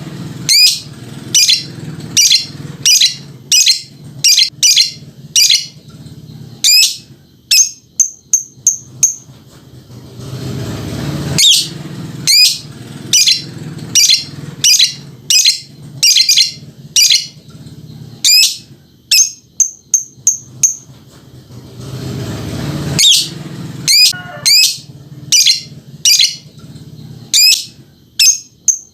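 Lovebird doing its 'ngekek' song: long bouts of sharp, repeated chirps at about one to two a second, each bout ending in a quicker run of short higher notes. There are three bouts, with pauses of a few seconds between them.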